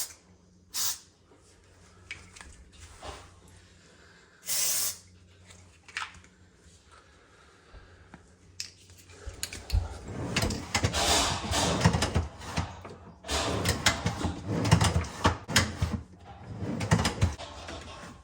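A few short hissing bursts, then from about nine seconds in a busy run of knocks, clatters and scrapes as refrigerator door and hinge parts are worked and handled.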